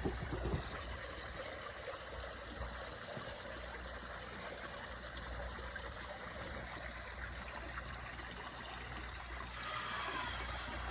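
Concrete water fountain running: a steady splashing and trickling of falling water.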